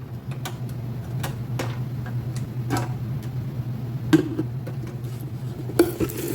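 A utensil tapping and scraping in a pan while spaghetti sauce is spread over the bottom, making irregular light clicks over a steady low hum.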